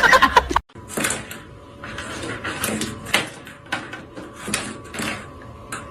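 A string of irregular knocks and clatters, several a second, over a faint steady hum. Before that, just over half a second in, louder pitched tones with music cut off suddenly.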